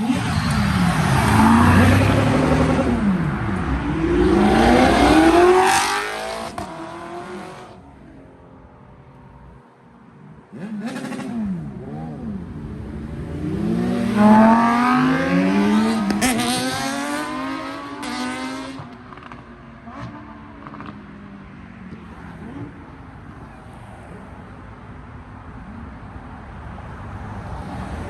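Supercars accelerating hard past one at a time, their engines revving up and falling away. The first pass fills the opening seven seconds, a second comes from about ten seconds in, and then quieter engine sound follows.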